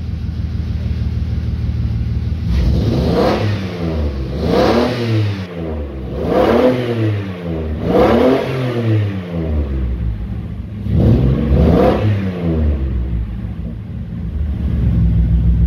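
Jeep KJ engine through a decatted exhaust, both catalytic converters removed. It idles, is revved up and let fall back about five times, then settles back to idle near the end.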